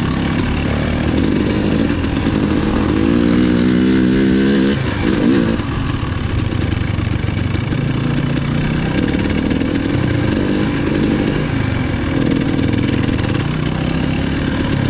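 Dirt bike engine running at low trail speed, the throttle opening and closing. About three seconds in it revs higher for a couple of seconds, then drops back sharply and carries on at low revs.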